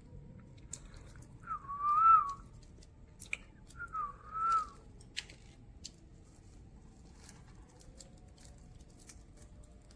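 Two short, wavering whistled notes about two seconds apart, among scattered small clicks of budgerigars husking spray millet seeds.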